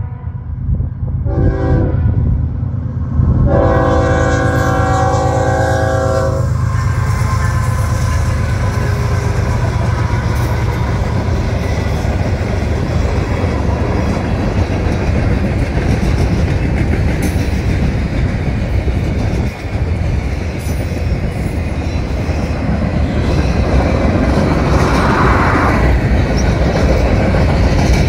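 CSX diesel locomotives sounding their multi-note horn for the road crossing: briefly at the start, then a long blast from about three to six seconds in. After that, the freight cars roll past with a steady rumble and clickety-clack of wheels over the rails, and a hiss swells near the end.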